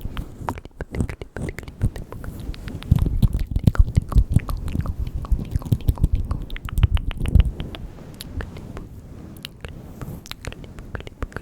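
Close-miked ASMR mouth sounds: rapid, irregular wet clicks and smacks of the lips and tongue, busiest and loudest through the middle.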